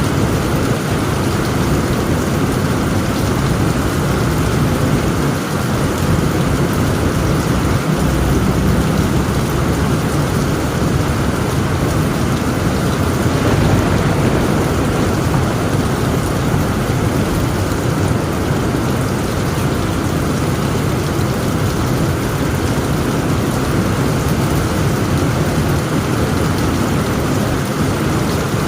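Heavy rain drumming steadily on a tent roof, with a low, continuous rumble of thunder underneath.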